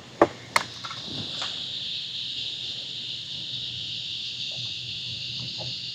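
Cicadas in the riverside trees singing in a steady, high-pitched chorus, with two sharp knocks in the first second.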